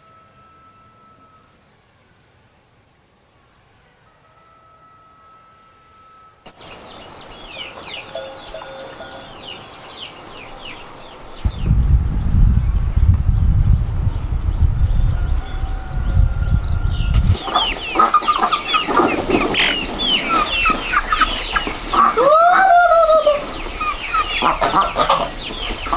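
Steady insect buzz at first. After about six seconds, a flock of chickens clucking and cheeping with many short high calls, growing denser in the second half, and a rooster crowing once near the end. A low rumble sits underneath for several seconds in the middle.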